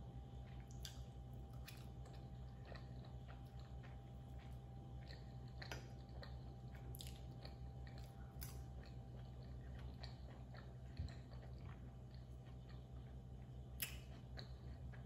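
Close-miked chewing of creamy penne pasta: many small wet mouth clicks and smacks, a couple of them sharper near the end, over a low steady hum.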